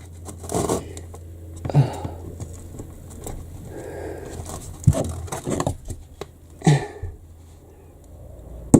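Scattered light knocks and clicks with rustling, the sharpest knock near the end: a person shifting about and handling timber and tools while fitting wooden beams.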